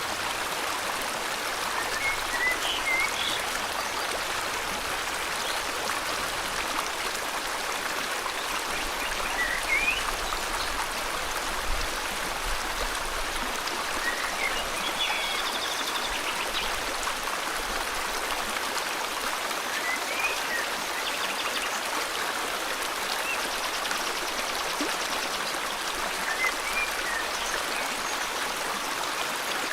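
River water flowing steadily, with short bird chirps every few seconds.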